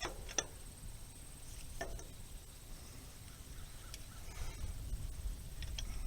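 Sparse metallic clicks and clinks of a wrench working on a hay rake's rusted bolts: a few sharp ticks spaced a second or two apart over low background noise.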